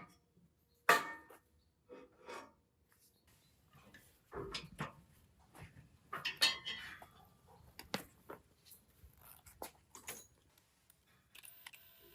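Metal tools and parts clinking and knocking against each other as they are handled, a series of separate sharp clanks with the loudest about a second in. A faint steady hum starts near the end.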